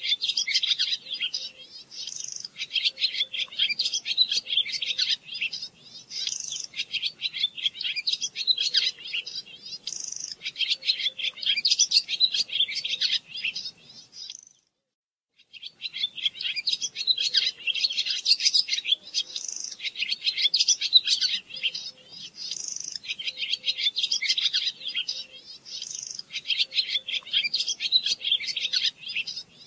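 A songbird singing in repeated phrases of rapid, high chirps and trills, each phrase lasting a couple of seconds. The sound cuts out completely for about a second about halfway through.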